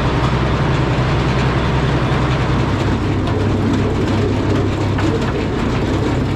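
Antique Frick sawmill running steadily: the power unit's engine and the inserted-tooth circular saw make a loud continuous din. The engine's low note changes about three seconds in.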